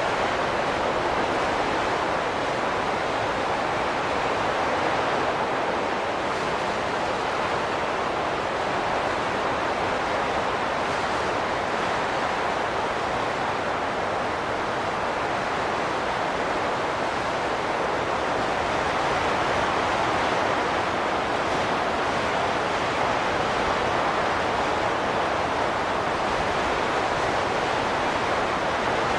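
Wind rushing steadily, swelling and easing in slow gusts.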